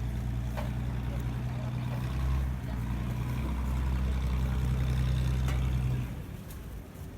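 Ferry's engine running with a steady low drone, which drops away about six seconds in.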